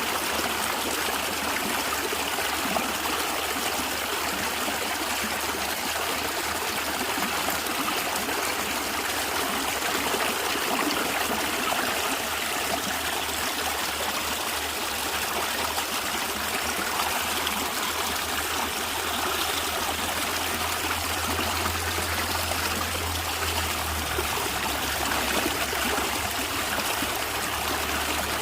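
Natural stream of water gurgling and trickling steadily.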